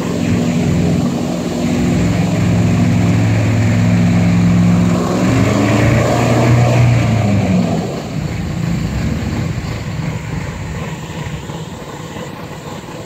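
Airboat's engine and air propeller running with a steady hum, which rises in pitch about six seconds in and then fades away.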